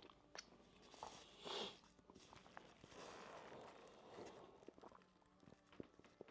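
Near silence with faint chewing and mouth noises: scattered small clicks and one short soft puff of breath-like noise about a second and a half in.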